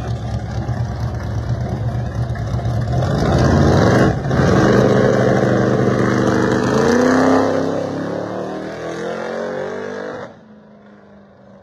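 Street-driven cars making a drag-strip pass, engines revving hard under full acceleration with a brief break about four seconds in, then the engine note climbing again before fading into the distance. The sound drops off sharply near the end.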